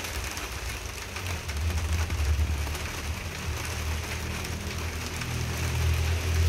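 Steady rain falling, an even hiss of drops, over a low rumble that swells and eases, loudest about two seconds in.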